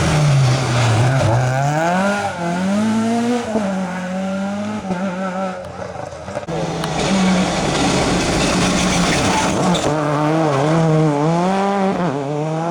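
Rally car engine working hard on a special stage, its revs swinging up and down repeatedly through gear changes and lifts, with tyre noise underneath.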